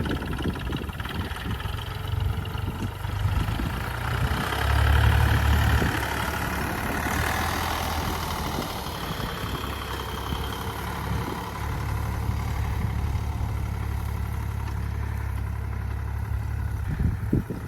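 Dongfeng DF-304 tractor engine running steadily, louder for a couple of seconds about five seconds in.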